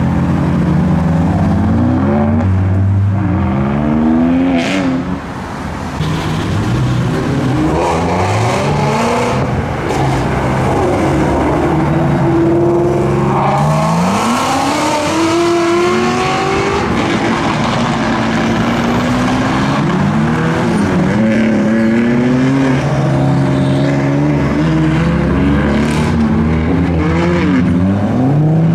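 Several performance cars pulling away one after another, their engines revving and accelerating with rising, overlapping engine notes. A sharp crack comes about five seconds in and another near the end.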